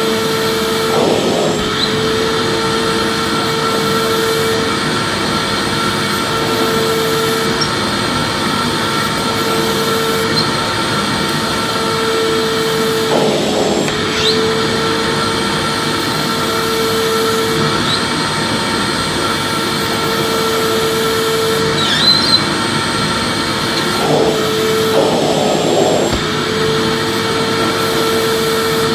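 Vacuum cleaner motor running continuously, a steady loud rushing noise with a humming motor tone that fades in and out every couple of seconds.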